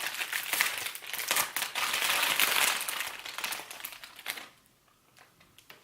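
Packaging crinkling and rustling as a taped-up shipping box is unpacked by hand, dense and crackly for about four and a half seconds, then dropping away to a few faint ticks.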